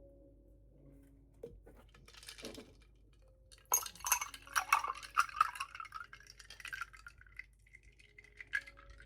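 Glassware and dishes clinking: a few light knocks, then a dense run of clinks and clatter about four seconds in that settles into a lingering ringing tone.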